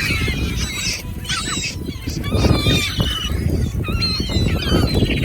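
A flock of birds calling over one another, many short high calls with wavering pitch overlapping throughout, over a steady low rumble of outdoor noise.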